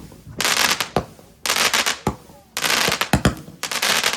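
Consumer fireworks going off in a rapid series, about one shot a second: each a sharp bang followed by a loud hissing crackle, with single sharp cracks between.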